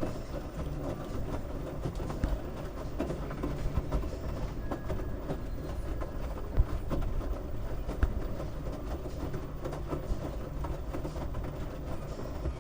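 LG washing machine running with a load of wet towels: a steady low rumble from the drum, with irregular knocks as the load moves.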